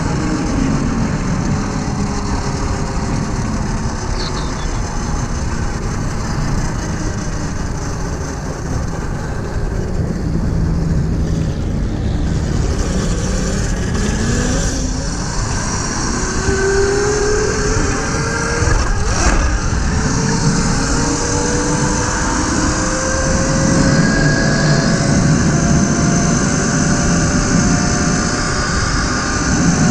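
Tuttio electric dirt bike being ridden: wind rushing over the microphone, with the electric motor's whine gliding up and down as the throttle is worked. The wind noise grows heavier toward the end.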